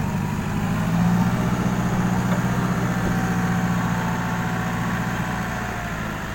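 Six-wheel dump truck's diesel engine running steadily while the truck tips its load of soil, loudest about a second in and easing off slightly near the end.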